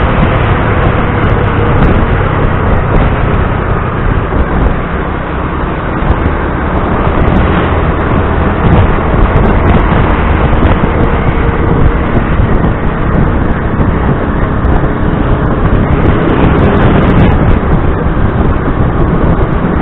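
Motor scooter riding along, its small engine running steadily under loud wind rumble on the microphone and road noise.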